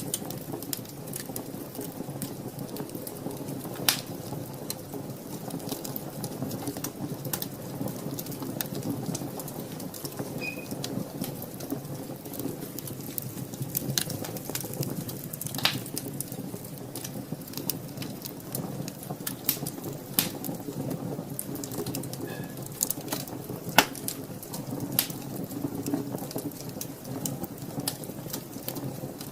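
Wood fire burning in a fireplace: a steady low rush of flames with frequent crackles and sharp pops, the loudest pops about 4 and 24 seconds in.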